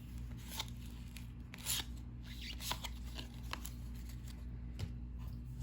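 Cardboard trading cards being flipped and slid against one another in the hand: short papery swishes and light ticks, about one a second, over a steady low hum.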